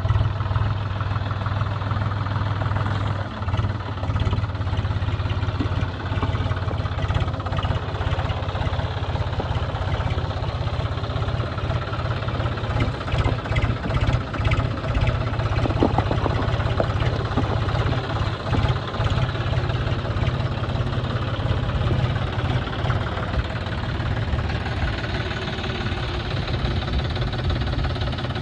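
John Deere tractor's diesel engine running steadily, with a fast even chugging.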